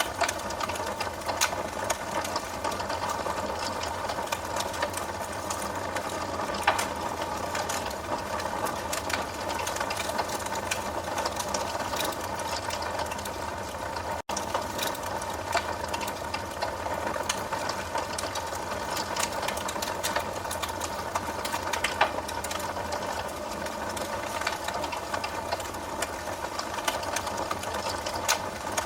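Wood fire burning with a steady hiss and frequent irregular crackles and pops, a few of them sharper and louder than the rest.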